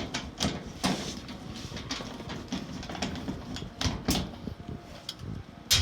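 Scattered clicks and knocks of metal parts being handled on a clothes dryer's sheet-metal cabinet, as the top-panel nuts and hold-down clips are taken off. The sharpest knock comes near the end.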